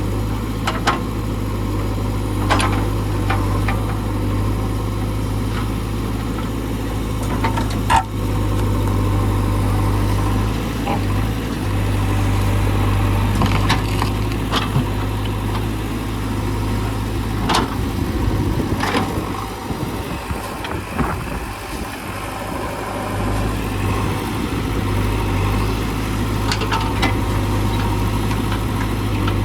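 JCB 3DX backhoe loader's diesel engine running steadily, with scattered sharp knocks and cracks over it. The low engine hum weakens for a few seconds past the middle, then comes back.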